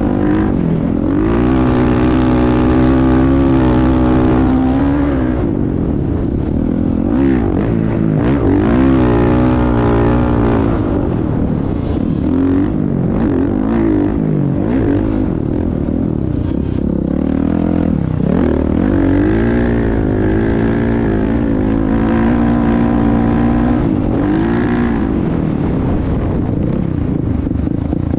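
Motocross dirt bike engines revving up and down as they are ridden, the pitch rising and falling over and over, with more than one engine heard at times.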